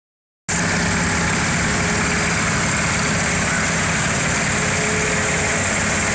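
Tractor engine running steadily at a low, even speed, starting abruptly after half a second of silence.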